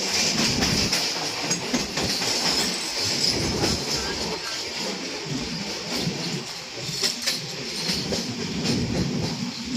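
Steady rolling rumble and rattle of a moving vehicle, with a few sharp clicks.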